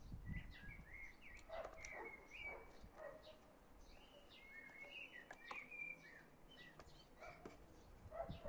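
Birds chirping faintly in the background: short rising and falling chirps, repeated. There are a few light clicks, and a low bump at the start and again near the end.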